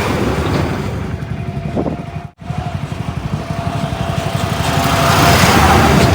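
Heavy diesel engine running with a fast low throb. It breaks off for an instant a little past two seconds in, then grows louder toward the end.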